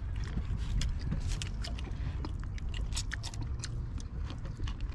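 Someone eating close to the microphone: chewing and biting with many irregular mouth clicks, over a steady low rumble.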